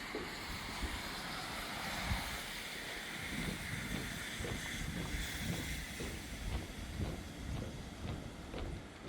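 Footsteps at a walking pace, about two a second, with wind blowing across the microphone and through the surroundings.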